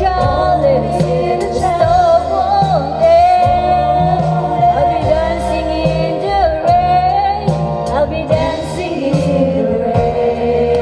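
A woman singing a gospel song with vibrato over an instrumental backing track with bass and a steady drum beat.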